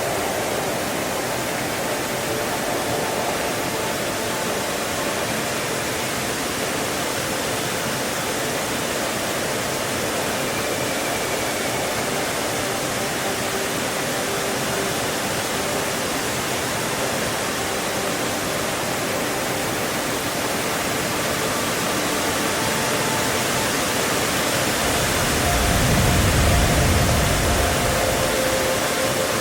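Yudaki waterfall's water rushing with a steady, even roar. Near the end a low rumble swells for a couple of seconds.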